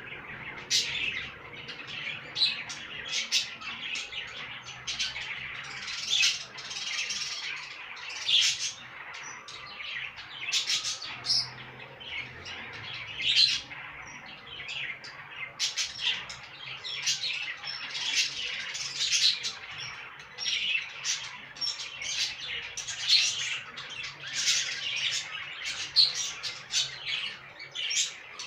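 Budgerigars chirping and chattering without a break, a quick run of short, high calls, several each second.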